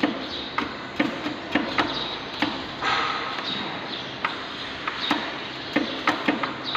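A series of irregular sharp knocks and taps, as of something being struck or handled, with a short hiss about three seconds in.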